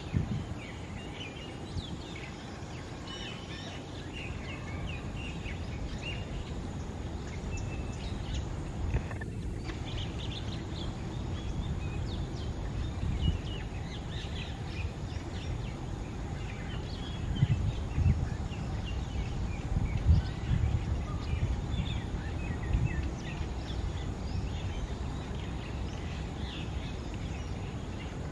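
Outdoor birdsong: many short bird chirps and calls scattered throughout, over a low rumbling background with a few louder swells in the second half.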